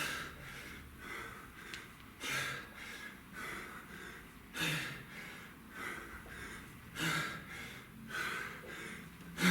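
A man breathing hard from exertion during a kettlebell set: a forceful exhale about every two and a half seconds, with quicker breaths in between.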